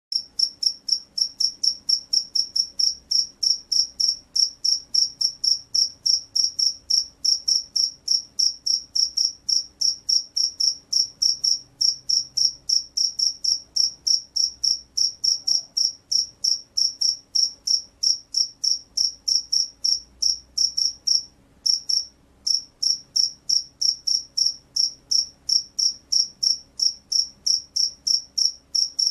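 Field cricket chirping: short, high-pitched chirps repeated evenly at about three a second, with one brief pause about two-thirds of the way through.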